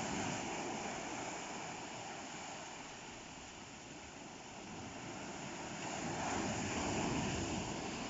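Sea surf rushing and washing, a steady noise that eases off and then swells again about six seconds in as another wave comes in.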